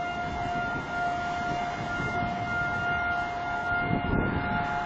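Outdoor tornado warning siren holding one steady tone that swells and fades slightly, over a constant rush of wind and rain.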